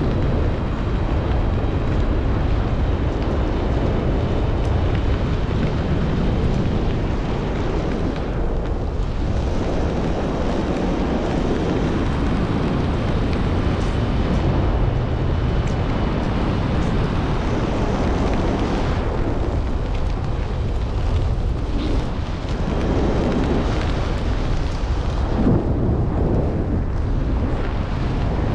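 Wind rushing and buffeting over the microphone: the airflow of an unpowered glider in flight, a steady loud rumble that dips a little every few seconds.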